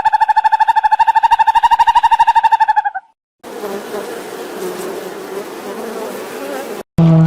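An insect buzzing: a steady, rapidly pulsing buzz that stops about three seconds in. After a brief silence, a quieter, noisier stretch with a low hum follows, and a different clip starts abruptly at the very end.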